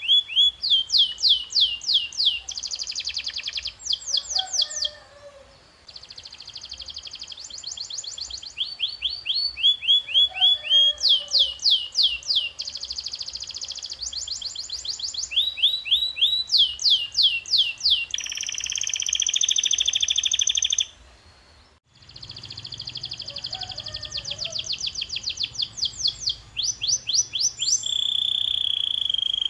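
Domestic canary singing: phrases of rapidly repeated sweeping whistled notes, several a second, alternating with buzzing rolls, broken by two short pauses.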